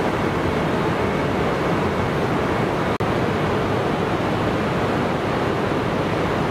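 Steady rushing noise from the E926 East-i inspection Shinkansen standing at the platform with its onboard equipment running. The sound drops out for an instant about halfway through.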